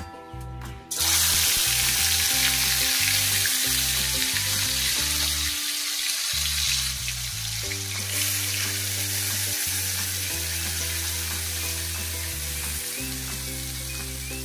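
Hot oil in an iron kadai sizzling loudly as a wet spice paste is poured in about a second in, then frying steadily, the hiss slowly dying down.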